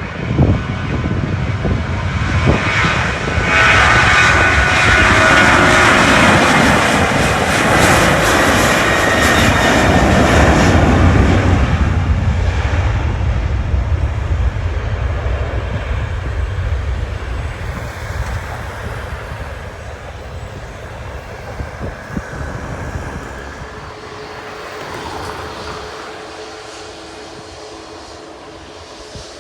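Jet airliner's engines at takeoff power: a loud roar with a whining tone that builds, passes and falls in pitch, then fades slowly as the aircraft climbs away.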